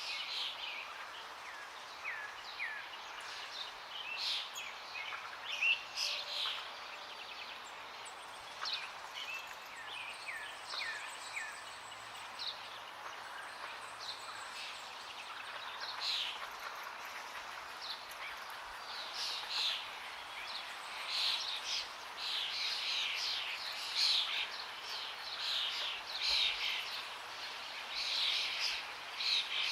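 Wild songbirds chirping and calling over the steady rush of flowing water. The calls are sparse at first, a few short down-slurred notes, and grow into dense, busy chirping from about halfway through.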